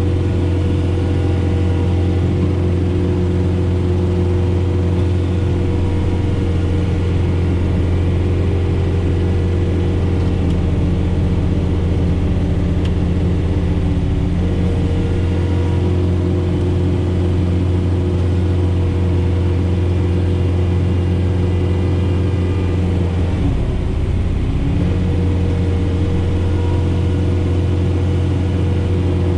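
Diesel engine of a John Deere 4066R tractor running steadily while it drives a Frontier SB1174 snowblower through heavy wet snow. The engine note dips briefly and picks back up about 23 seconds in.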